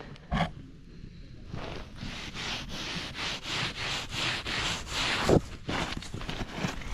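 Crunching footsteps on an icy crust of sleet and frozen snow, about two steps a second. They start about a second and a half in, and the loudest crunch comes near the end.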